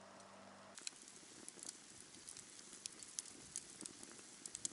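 Faint rain, scattered drops tapping irregularly; a low steady hum stops under a second in.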